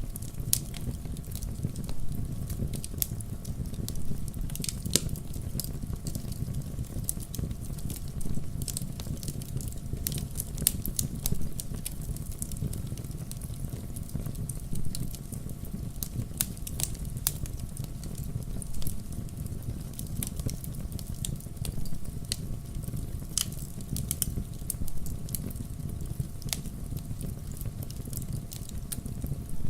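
Wood fire crackling in a fireplace: irregular sharp pops and snaps of burning logs over a steady low rumble.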